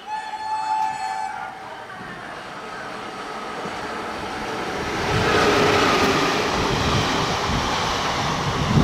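An express train's horn holds one steady note and ends about a second and a half in. The train then comes up and passes, its rumble and wheel noise on the track growing loud from about five seconds in, with heavy low knocks near the end.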